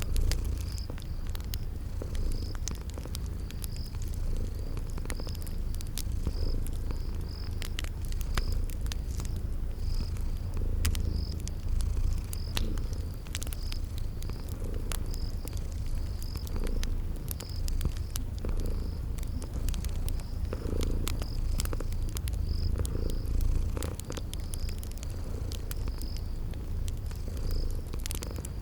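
Cat purring steadily, with the irregular pops and snaps of a crackling wood fire and a cricket chirping in an even rhythm.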